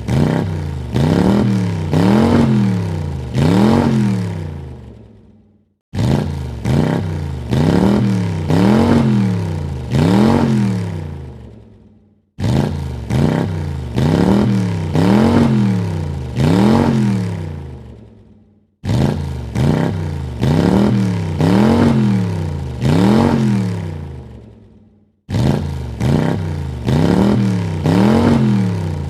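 A car engine revved in quick blips: four rises and falls in pitch about a second apart, then dying away. The same short clip repeats about every six and a half seconds.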